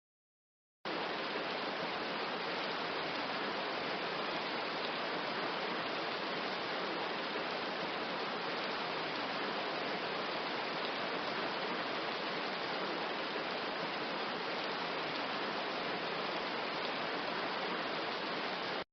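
Steady rain falling: an even, unbroken hiss that cuts in abruptly about a second in.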